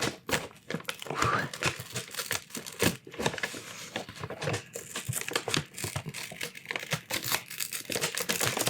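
Paper food bag being crinkled, crumpled and torn close to the microphone, a continuous run of irregular crackles and sharp rustles.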